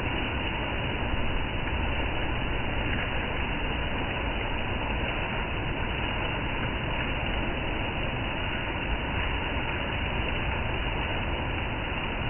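Steady rain falling: an even, unbroken wash of noise.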